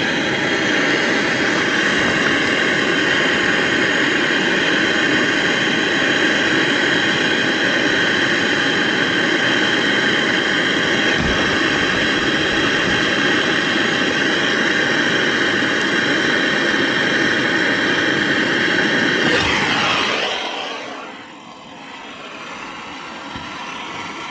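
Brazing torch burning with a steady, loud roar as a refrigerant line joint is brazed, dying away about twenty seconds in.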